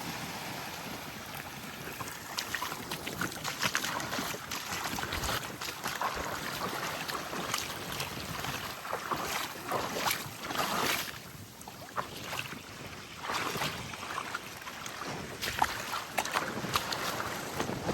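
Small waves lapping and washing up a sandy shore, with an irregular crackling fizz of water running over sand. The wash eases briefly about eleven seconds in.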